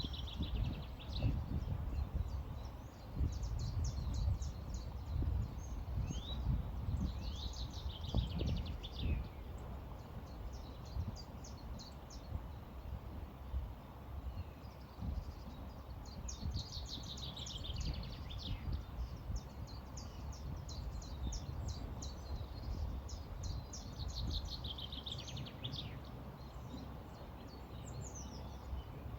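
Songbirds singing in several bursts of quick, high chirps and trills over a steady low rumble of flowing river water and breeze.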